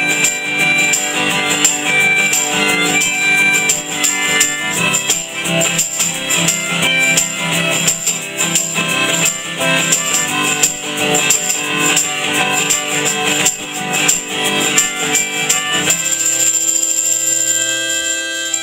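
Live folk band playing an instrumental passage with a steady shaken-percussion beat over pitched instruments. About two seconds before the end the beat stops and a final chord is left ringing.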